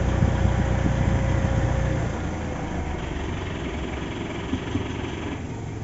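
Mitsubishi Montero's common-rail diesel engine idling with no misfire, its injectors recalibrated. About two seconds in, the low rumble drops and the idle settles quieter as the air conditioning is switched off.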